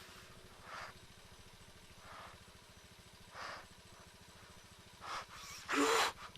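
Motorcycle engine idling faintly with a steady low pulsing rumble. Several short soft puffs of noise come at intervals over it, and a louder one with a brief low pitched note comes near the end.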